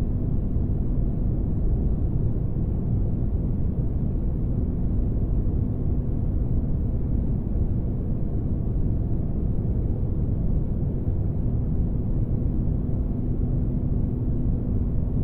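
Steady low rumbling drone of a sci-fi spaceship-interior ambience, used as white noise for sleep. A faint hum sits on top of it, fades out about halfway through and comes back a few seconds later.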